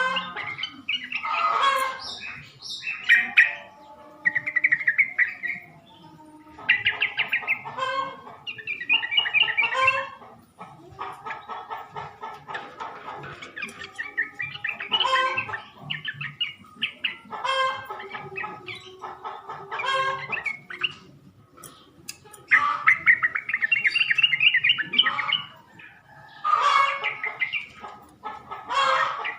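Yellow-vented bulbul song: bursts of bubbly, chattering notes, each a second or two long, with short pauses between them. It is the male's call, used as a lure to draw other males into answering.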